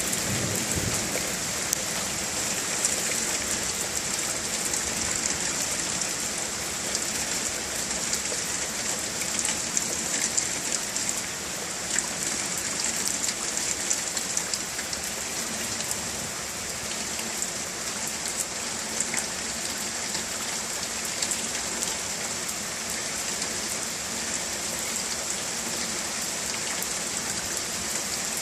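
Heavy rain falling steadily and pattering on hard surfaces, with many small sharp drop impacts.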